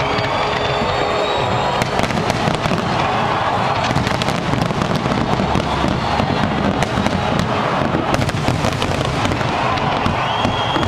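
New Year's Eve fireworks display bursting and crackling, many sharp bangs in quick succession over a dense rumble, with music playing underneath.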